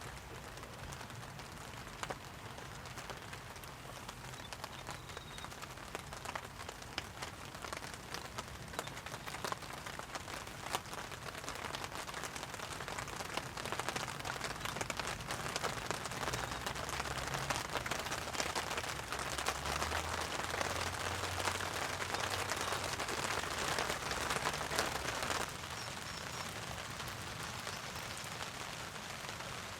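Rain pattering on a heavy-duty camping tarp overhead, a dense hiss of drops that grows heavier over the first twenty-five seconds, then drops suddenly to a lighter patter.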